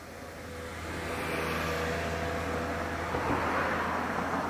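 Tokaido Shinkansen high-speed train approaching: a rushing noise that grows louder over the first second or so, then holds steady and loud.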